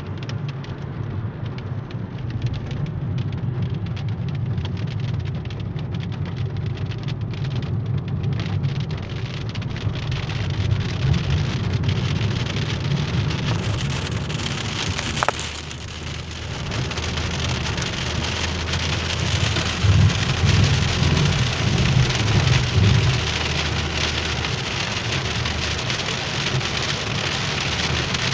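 Heavy rain falling on a moving car, a steady hiss over the low rumble of the car on the road; the rain grows heavier about halfway through.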